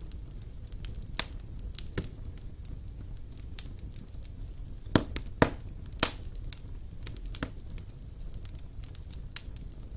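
Wood fire burning in a fireplace: a steady low rumble of flames with irregular crackles and sharp pops of burning logs, the loudest pops coming about five and six seconds in.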